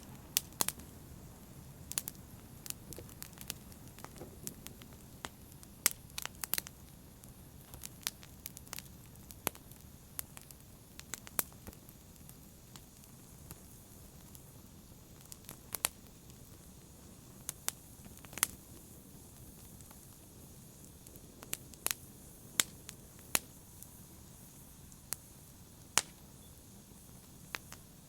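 Wood fire crackling in a fireplace: a soft low rumble of flames with sharp, irregular pops and snaps scattered throughout.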